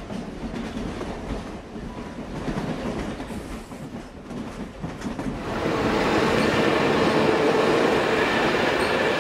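A train running on rails, growing suddenly louder and steadier about five and a half seconds in as it comes close, with faint held tones in the noise.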